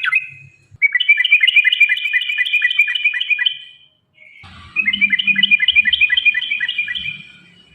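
Yellow-vented bulbul (trucukan) song: two long runs of quick, repeated chattering notes, several a second, each fading away at its end.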